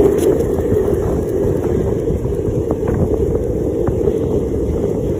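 Wind buffeting the microphone: a loud, steady, deep rushing noise.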